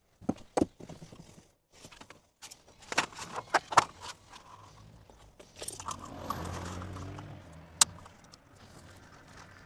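Handling noise of sheet aluminum and hand tools: scattered clicks and knocks as pieces are picked up and set down, then a longer scraping rustle about six seconds in, with one sharp click near the end.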